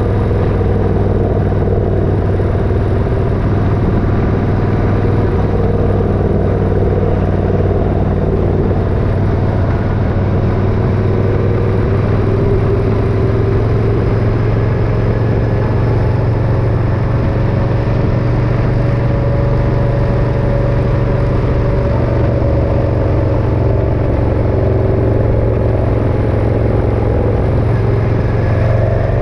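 Motorcycle engine running steadily under way, a constant drone with small shifts in pitch about two-thirds of the way through and again near the end.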